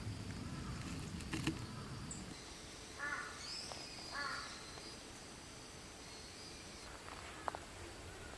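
A crow cawing twice, about a second apart, with fainter, higher-pitched bird calls and a thin steady high tone behind it.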